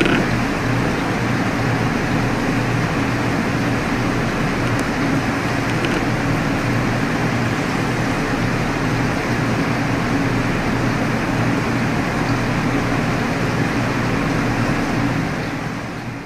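Steady mechanical hum with an even hiss, like an air conditioner or fan running, unchanging until it drops away and cuts off at the very end.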